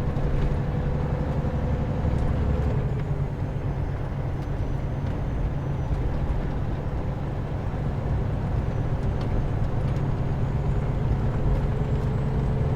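Semi-truck's diesel engine and road noise heard from inside the cab while driving at a steady speed: an even low drone.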